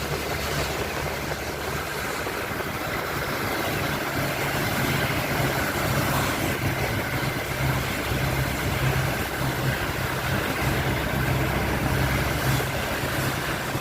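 A vehicle engine idling steadily under the even hiss of heavy rain.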